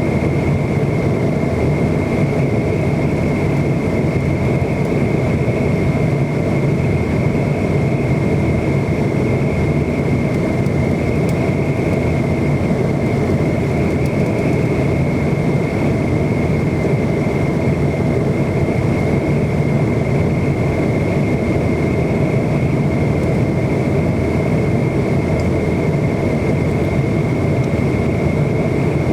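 Steady jet engine and airflow noise heard inside the cabin of an McDonnell Douglas MD-90 airliner, whose rear-mounted IAE V2500 turbofans give a constant deep roar with a thin steady high whine over it.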